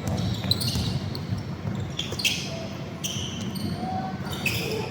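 Indoor basketball game: the ball bouncing on the court several times, with short high squeaks and background voices echoing in the hall.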